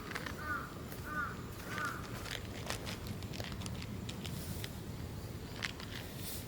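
An animal giving short, high, arched calls about every 0.7 s, four of them ending about two seconds in, over scattered light clicks and a low rumble.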